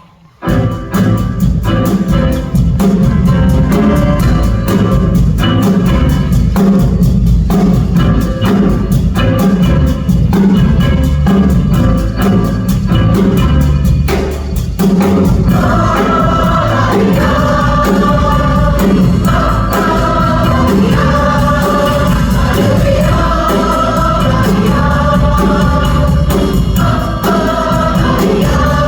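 A women's chorus singing a 1950s–60s pop song over drum-kit accompaniment with a steady beat. The opening is mostly the beat and accompaniment, and the choir's voices come in strongly about halfway.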